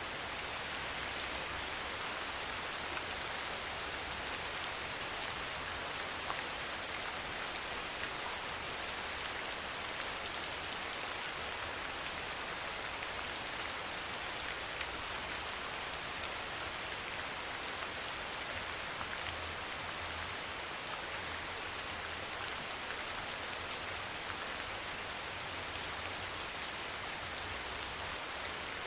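Steady soft rain falling: an even hiss with scattered drop ticks, unchanging throughout.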